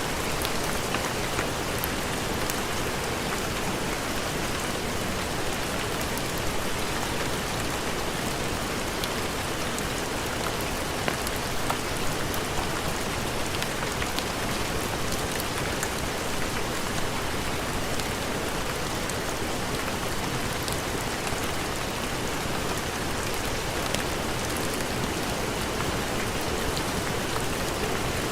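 Steady heavy rain falling, an even hiss with scattered sharp drop ticks.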